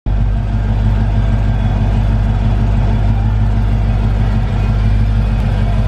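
2017 Dodge Challenger SRT Hellcat's supercharged 6.2-litre HEMI V8 idling steadily.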